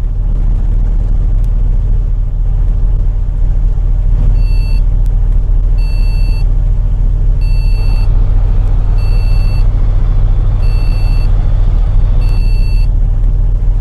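Bus heard from inside the cabin: a steady low engine and road rumble. From about four and a half seconds in, a short high electronic warning beep repeats about every one and a half seconds.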